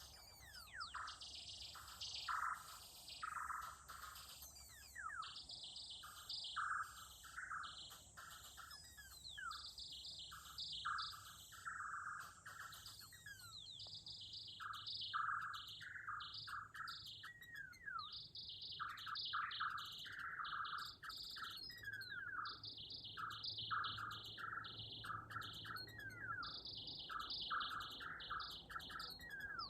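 Korg Volca FM synthesizer playing a fast sequence of short, high chirping notes with a few quick downward pitch sweeps.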